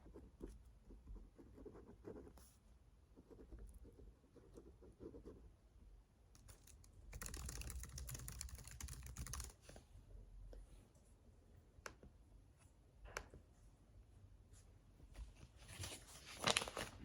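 Faint scattered taps and clicks of small objects being handled, with about two seconds of rustling around seven seconds in and a short, louder rustle near the end.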